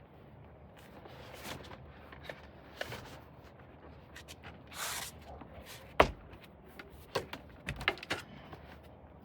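Scattered clicks and knocks of parts being handled while a car's rear seats are taken out. A short rustle comes about five seconds in, and the loudest sound, one sharp knock, about six seconds in, with a few more knocks soon after.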